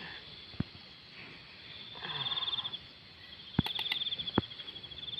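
Insects trilling in fast pulses, two stretches of high buzzing trill over a steady high insect hum, with a few sharp knocks in between.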